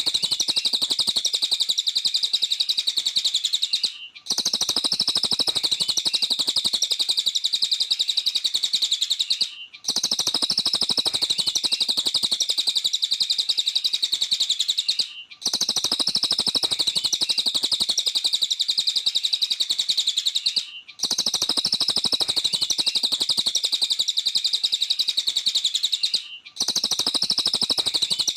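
Cililin birdsong: a fast, unbroken run of high chattering notes in bouts of about five and a half seconds, each ended by a brief gap at even spacing, as in a looped song recording.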